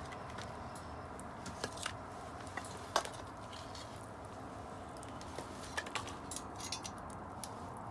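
Wood bonfire crackling: scattered sharp pops and snaps, the loudest about three seconds in and a little cluster near the end, over a soft steady rush.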